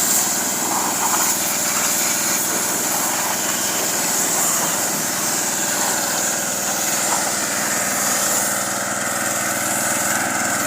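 Small petrol engine running steadily at an even speed.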